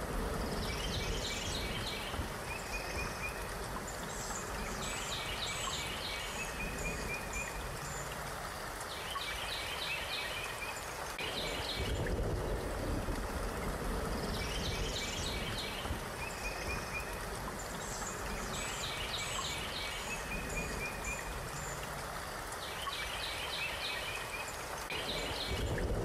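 Steady rushing nature ambience with songbird calls in short trilled phrases over it. The bird sequence repeats about every 13 to 14 seconds, as in a looped recording.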